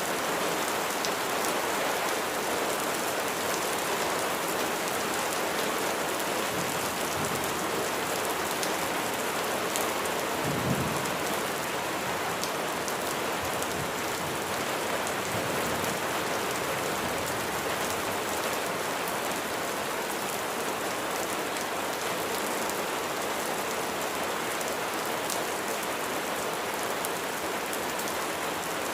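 Steady heavy rainfall, with a brief low rumble of distant thunder about ten seconds in.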